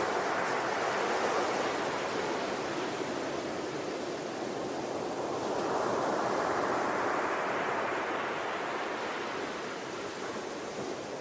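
Sea waves washing onto a shore, a steady rushing surf that swells and eases slowly, building again about halfway through.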